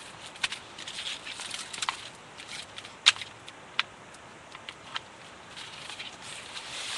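Footsteps crunching on gravel, uneven, with scattered sharp clicks; the sharpest click comes about three seconds in.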